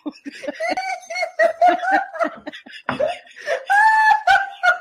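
People laughing hard in rapid fits, one voice breaking into a long high-pitched wheeze near the end as he struggles for breath.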